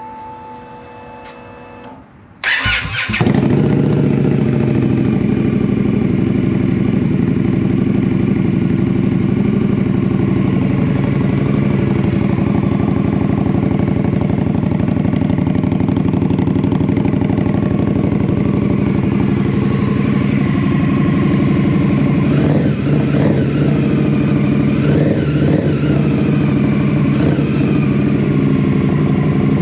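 Indian Scout Bobber Sixty's V-twin engine being started after a faint steady whine: it catches about two and a half seconds in and then idles steadily through newly fitted Bassani slip-on mufflers.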